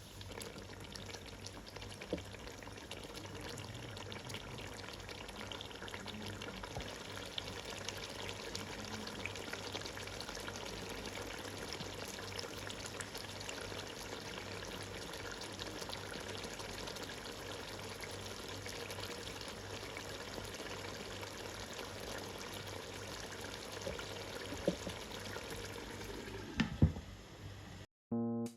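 Chicken masala cooking in a pan, giving a steady sizzle with small crackles. A few louder clicks come near the end.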